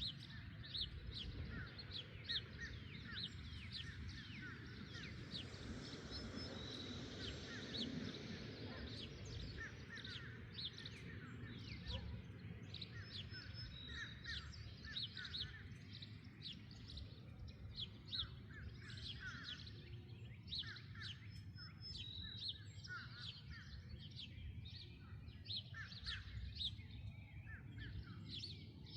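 Many small songbirds chirping and calling at once in quick, overlapping high notes, over a steady low background rumble.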